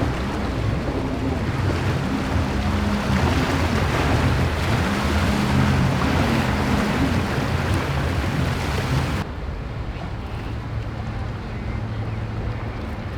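Powerboat engines running through rough water, their pitch rising and falling again and again, under heavy wind and surf noise. About nine seconds in the sound cuts abruptly to a lower, steadier engine hum with far less wind.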